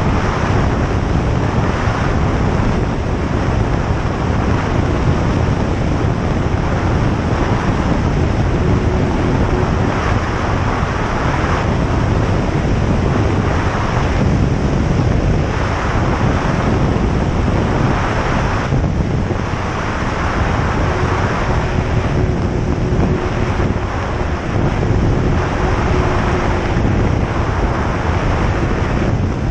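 Single-engine light aircraft heard from the cockpit: the propeller engine running steadily with a loud, even drone.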